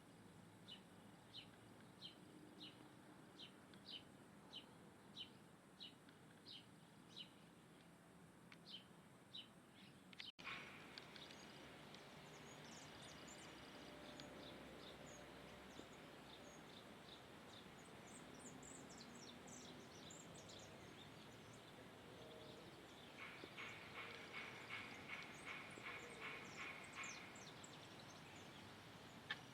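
Faint bird calls: a short high note repeated about twice a second, which breaks off abruptly about ten seconds in, followed by scattered high chirps and a fast trill of notes near the end.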